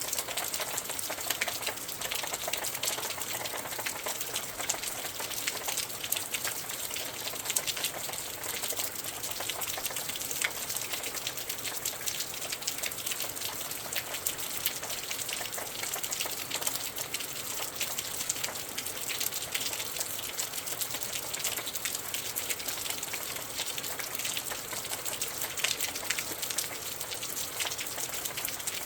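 Steady rain falling outside a window: a dense patter of small drop ticks over a constant hiss.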